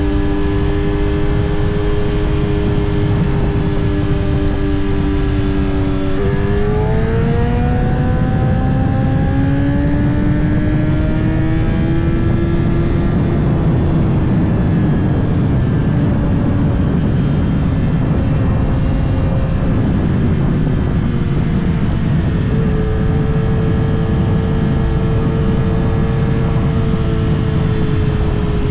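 Kawasaki ZX-10R's inline-four engine heard while riding, over heavy wind and road rush. It holds a steady note, then revs up smoothly in gear from about six seconds in and eases off gradually. It settles onto a steady note again in the last few seconds.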